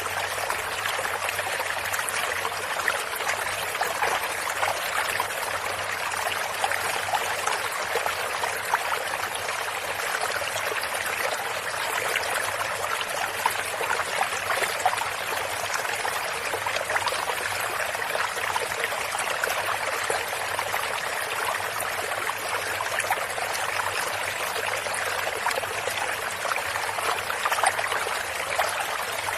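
Stream of running water flowing and trickling steadily, with many small splashes and bubbles.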